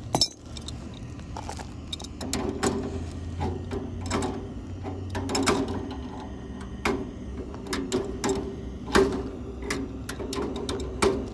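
Irregular metallic clicks and knocks of hand tools working on fittings as connections are tightened, over a steady low hum.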